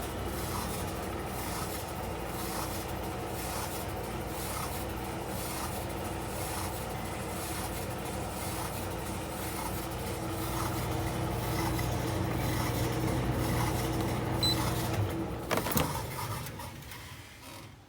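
Costway portable electric clothes dryer running, its drum motor and blower giving a steady hum; the owner says it is blowing only cold air, not heating up. Near the end a sharp click, and the running dies away.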